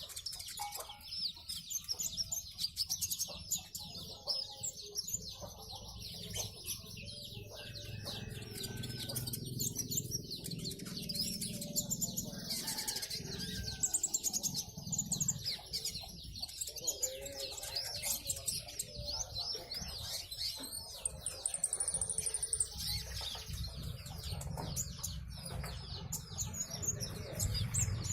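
A sunbird sold as 'kolibri ninja dada coklat' singing continuously: a rapid stream of high, thin chirps and twittering trills, with a short buzzy trill about two-thirds of the way through.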